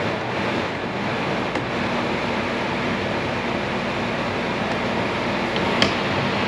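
Motorhome air conditioner running, a steady rushing of air that has just come up to full strength, with one short click near the end.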